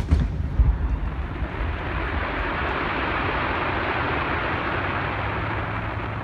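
Fireworks: the low rumble of a firework boom in the first second, then a steady crackling hiss lasting several seconds, easing slightly near the end.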